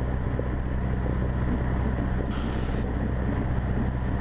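Cessna 150's Continental O-200 four-cylinder engine running steadily at run-up power during the pre-takeoff engine check, heard from inside the cockpit.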